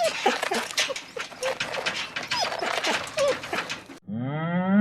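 Dogs, likely puppies, whimpering and yelping in many short rising and falling cries over a noisy background. About four seconds in it cuts to a cow starting a long low moo.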